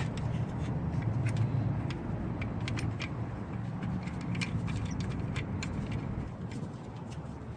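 Irregular light metallic clicks and clinks of hand tools and metal parts being handled, over a steady low hum.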